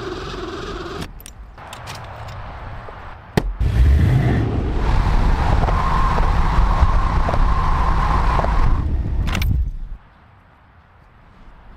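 A motor running steadily for several seconds with a low rumble, after a few short cut-together mechanical sounds and a sharp click. It stops abruptly before the end.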